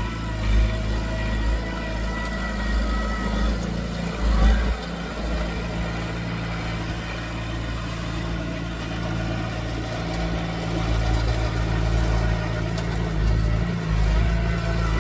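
Diesel engine of earthmoving machinery running steadily, with a brief louder moment about four and a half seconds in.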